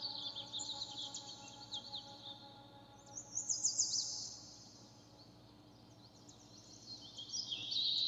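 Small birds chirping in quick clusters of high, sliding notes, loudest a little past three seconds in, over soft sustained music tones that fade away in the first few seconds.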